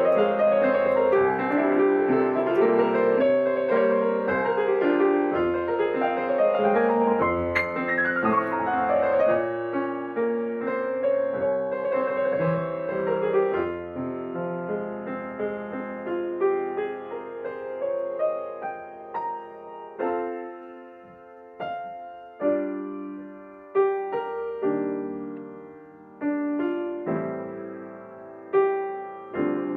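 Slow, ambient solo piano music. Dense, sustained chords ring together through the first half, then thin out into separate chords, each struck and left to fade before the next.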